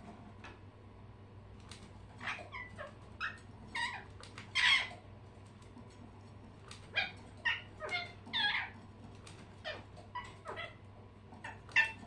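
Pet birds calling: short chirps and squawks that bend in pitch, in two flurries of several calls each and a few more near the end.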